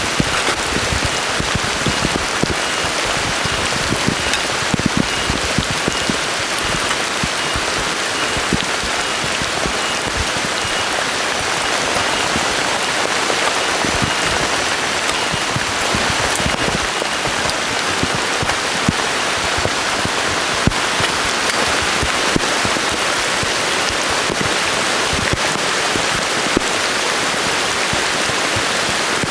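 Steady heavy rain falling, with many close drops striking surfaces in quick, irregular ticks.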